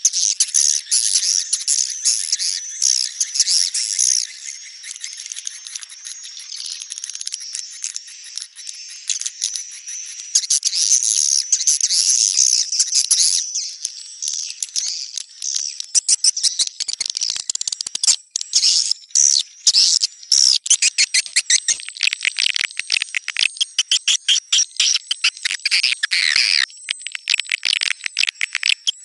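Swiftlet calls from a 'netral' swiftlet-house lure track: a dense, high chattering of many rapid chirps and twitters. There are a few short breaks about two-thirds of the way through.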